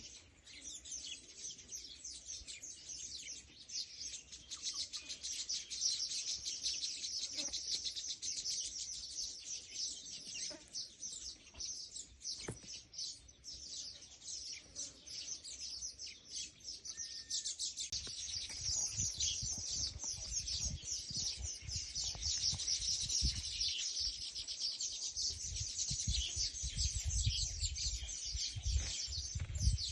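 Many small birds chirping rapidly and without a break, a dense high twittering. From about the middle on, a low rumble comes and goes underneath.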